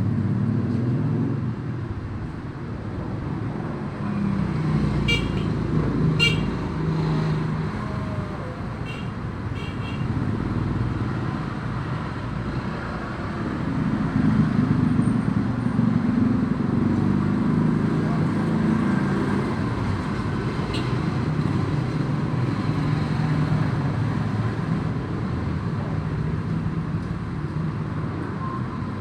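Motor vehicle traffic: engines running and passing, with short horn beeps about five and six seconds in and again near ten seconds.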